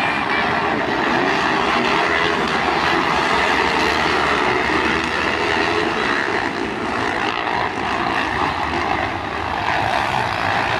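Several motocross dirt bike engines running at once, a loud, steady, dense engine noise with no single bike standing out.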